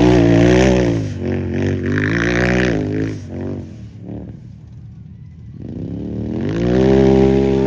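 Unlimited-class race UTV engine revving hard, pitch rising and falling through the gears. It fades away about four seconds in, then comes back loud near the end.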